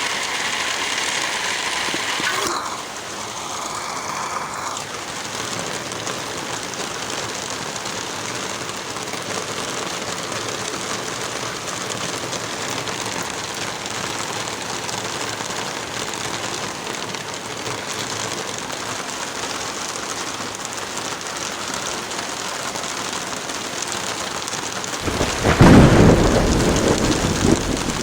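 Heavy rain falling steadily, with a loud rumble of thunder near the end.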